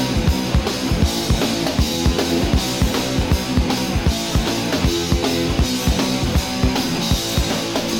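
Live punk rock band playing an instrumental passage without vocals: the drum kit keeps a busy, driving beat with a steady kick drum under a held bass and guitar line.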